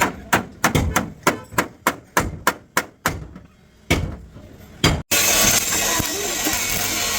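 Hammer blows on sheet-metal car bodywork, about three a second for three seconds, then two single blows. About five seconds in, the sound cuts to a steady hiss.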